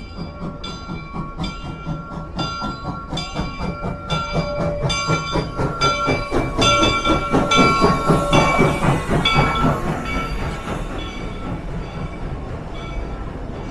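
A locomotive's bell ringing steadily, about one and a half strokes a second, over the rumble and clatter of an arriving train. Both grow louder to a peak partway through and then fade as the engine passes.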